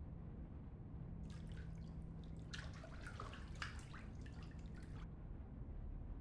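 Water dripping and splashing in a quick cluster of small drops, starting about a second in and stopping about five seconds in, over a low steady hum.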